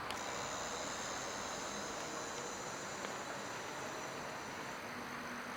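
E-bike motor driving the wheel at pedal assist level 1: a steady high whine over an even hiss.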